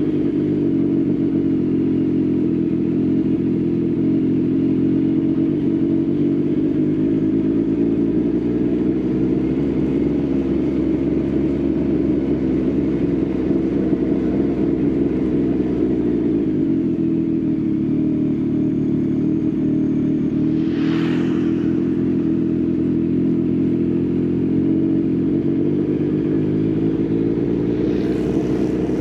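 Yamaha XSR900's inline-three engine with an Akrapovič exhaust running steadily under way, its pitch easing down and then climbing back about halfway through. A brief rushing noise passes about two-thirds of the way in.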